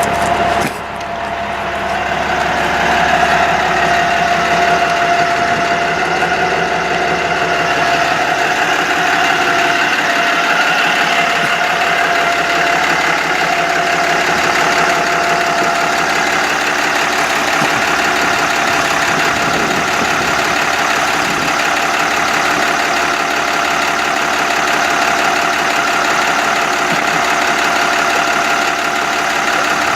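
Sterling Bullet bucket truck's diesel engine idling steadily, with a thin steady whine over it that fades about halfway through.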